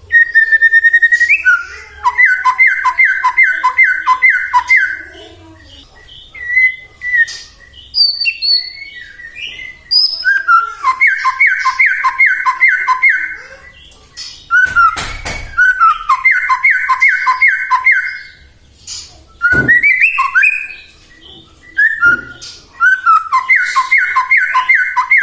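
White-rumped shama (murai batu) singing loudly. Its song is a series of rapid two-pitched note runs, repeated four times, with short whistles and high chirps between them. Two brief knocks come about midway.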